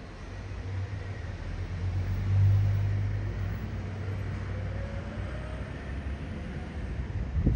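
Electric suburban train running past, a low rumble that peaks about two and a half seconds in, with a faint rising whine from about four seconds in.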